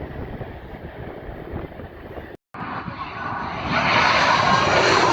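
Low wind rumble on the microphone, a brief break, then a jet airliner's engine noise swelling to a loud roar over the last second and a half as it passes low overhead on approach.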